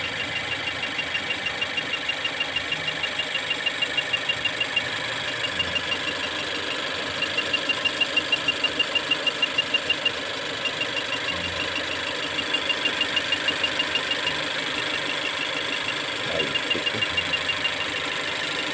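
Mazda 2 engine idling with a fast, regular ticking, about five ticks a second, that comes and goes in stretches. It is heard while cylinder number 4 is checked for an intermittent misfire.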